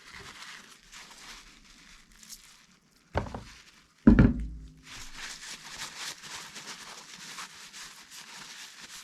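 Hissing spray used to clean a small transmission shift solenoid: a few short hisses, then a longer steady hiss. Two heavy thumps land about three and four seconds in; the second is the loudest sound.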